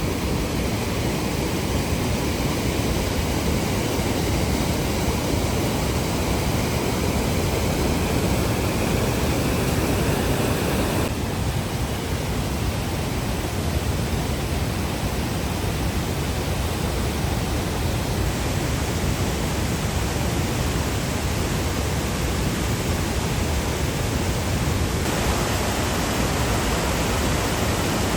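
Steady rush of fast-flowing water from a river or waterfall, an even wash of noise with no pitched sounds. Its tone shifts abruptly twice.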